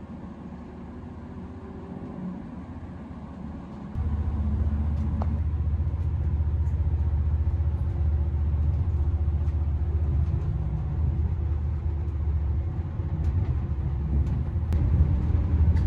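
Cabin of a Class 220 Voyager diesel-electric train: a steady low rumble that jumps suddenly louder about four seconds in and stays loud. The jump is the underfloor Cummins diesel engine taking power as the train gets under way.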